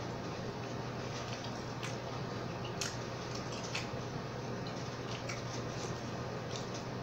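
A person chewing a mouthful of food close to the microphone, with wet mouth sounds and a few sharp clicks scattered through, over a steady low hum.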